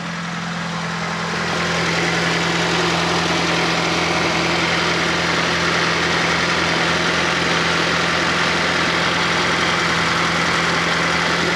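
Fiat Panda 4x4 Sisley's fuel-injected engine idling steadily, still warming up after a cold start in below-freezing weather. A louder rushing noise joins the idle about a second and a half in and eases off near the end.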